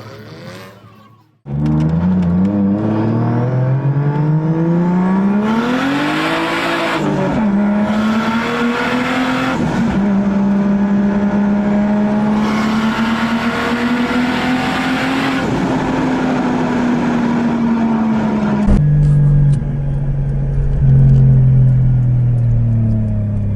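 Car engine revving up about a second and a half in and then held at a high, steady pitch for a long stretch, with several loud bursts of rushing noise over it. Near the end the engine runs at a lower note that slowly falls.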